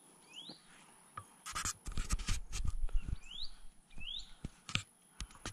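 A bird's short upward-sliding chirp, heard three times, over a burst of close rustling and knocking in the middle that is the loudest sound, with a few sharp clicks near the end.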